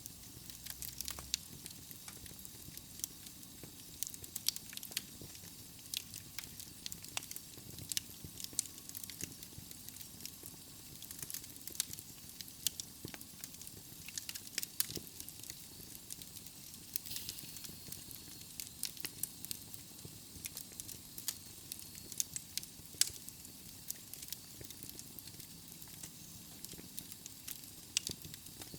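Wood fire burning in a fireplace: logs crackling with irregular sharp pops and snaps over a soft steady hiss.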